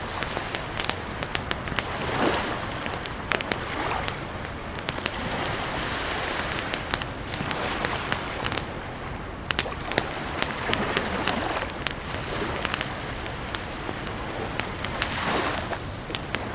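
Campfire crackling, with frequent sharp pops and snaps of burning wood. Under it a soft wash of lake water lapping, swelling every few seconds.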